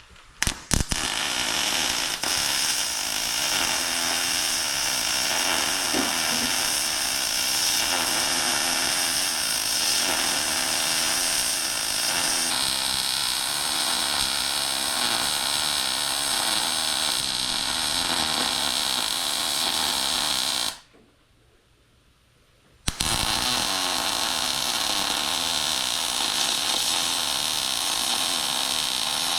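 Electric arc welding: the steady hiss of the arc laying a weld bead, with a few sharp clicks as the arc strikes. About two-thirds through it stops for roughly two seconds, then starts again for another pass. These are stacked weld passes filling ground-out cracks.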